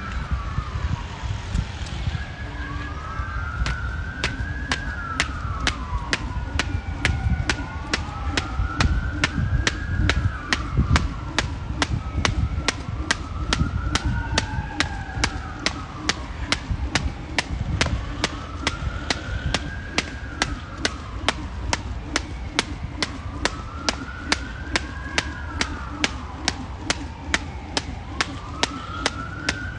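A 1 lb weighted jump rope slapping the ground in an even rhythm, about two and a half strokes a second, while a distant siren wails, slowly rising and falling every few seconds, over a low steady rumble.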